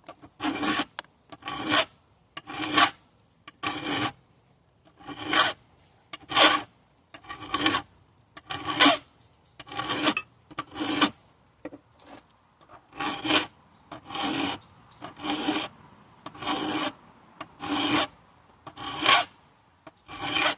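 Hand file being pushed across a chainsaw chain, one rasping stroke about every second in a steady rhythm, nearly twenty strokes in all.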